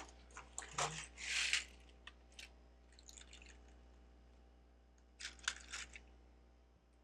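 Plastic Lego bricks clicking and clattering as they are handled, with a short rattling rustle about a second in and another quick cluster of clicks a little after five seconds.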